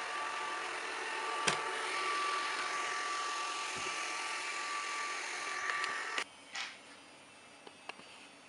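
Kitfort KT-531 robot vacuum cleaner running with a steady motor whine, with a single click about a second and a half in. The sound cuts off suddenly about six seconds in, leaving only a few faint clicks.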